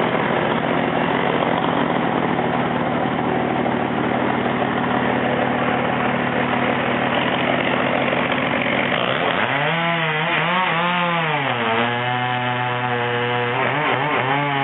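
Chainsaw cutting into a tree trunk, running under load for about the first nine seconds. The engine then rises and falls in pitch, holds steady for a moment, and dips and rises again near the end.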